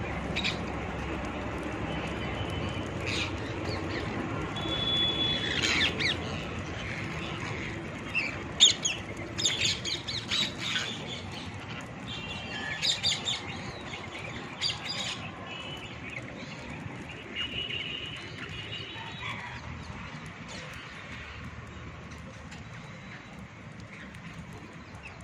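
Parrots squawking and chirping in short, sharp calls, busiest in the middle with one loud squawk at about eight seconds, over a steady low rumble.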